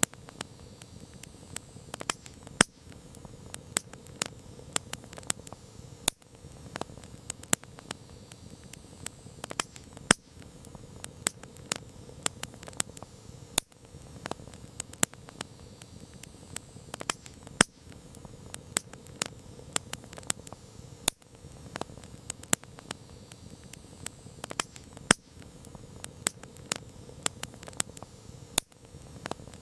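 Campfire wood crackling, with irregular sharp snaps and a few louder pops over a steady low hiss.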